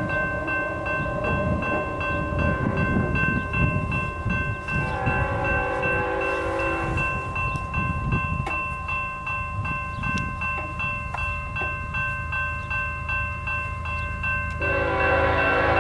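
Empty BNSF coal train rolling past: a steady rumble of the cars with regular clacking over the rail joints, and several steady high-pitched tones held over it throughout.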